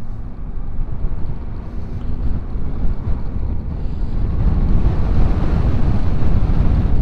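Strong wind buffeting the microphone on a moving motorcycle, a dense rumble that grows louder about halfway through.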